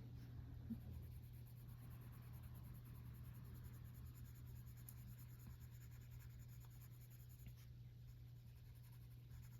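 Faint scratching of coloring on paper, barely above a steady low hum.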